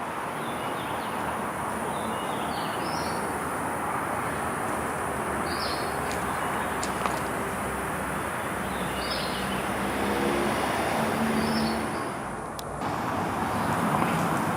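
Steady hum of road traffic, with a bird giving a short high call every two to three seconds over it.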